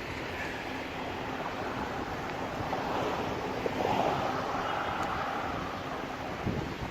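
Steady rushing of sea waves on the shore, mixed with wind on the microphone, swelling a little around the middle.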